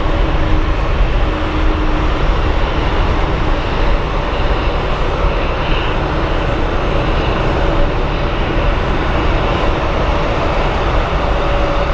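Jet airliner's engines running, a loud, steady rush of noise with faint steady tones.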